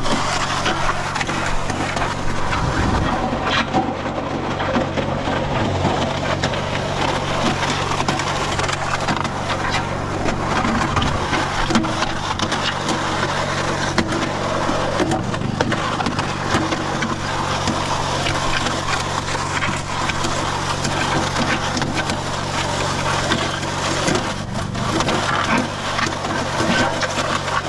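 Mud Mixer portable concrete mixer running: a steady motor hum under the gritty grinding and churning of concrete being mixed inside.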